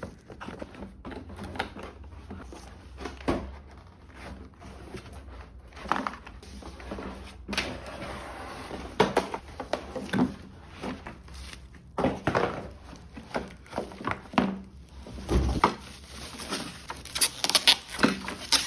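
Unboxing handling: an espresso machine and its packaging being lifted out of the box, making irregular knocks and thumps with rustling in between.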